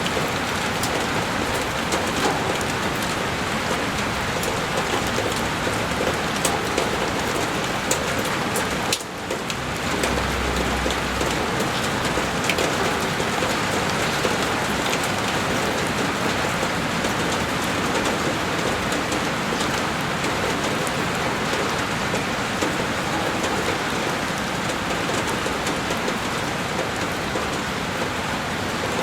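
Heavy rain falling on window glass: a dense, steady hiss with many sharp drop strikes scattered through it. About nine seconds in it dips briefly, then a low rumble sounds for a couple of seconds.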